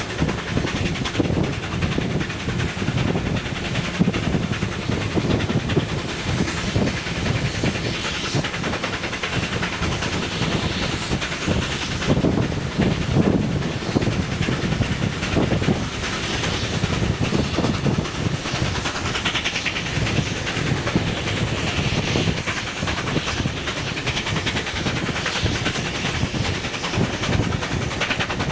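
A train running on the line: a steady clatter of wheels on the rails under a continuous hiss.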